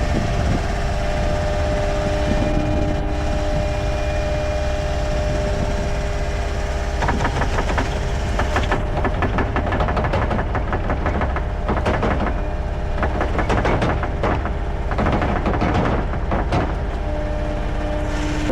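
Heavy work-vehicle engine running steadily, with a stretch of dense rattling and clatter from about seven seconds in until near the end.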